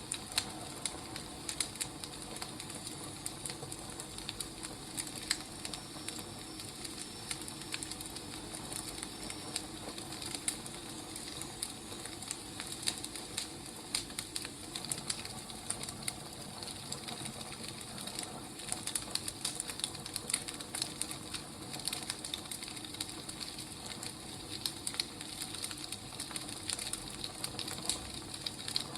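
Burning firewood crackling, with irregular small pops and snaps over a soft steady hiss.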